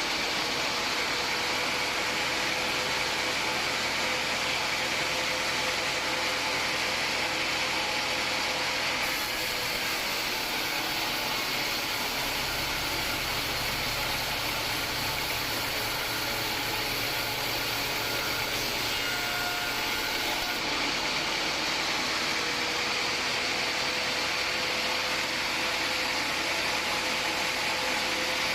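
Homemade band sawmill running steadily: a dense mechanical noise with a high steady whine on top, its tone shifting slightly a few times.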